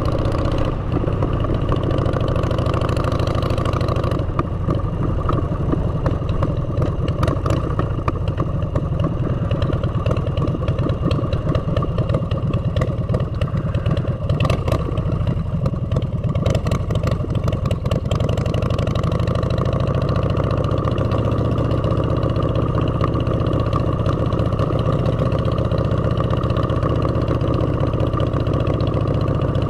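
Motorcycle engine running through aftermarket exhaust pipes as the bike is ridden, steady throughout. A scatter of sharp clicks and knocks comes in between about six and eighteen seconds in.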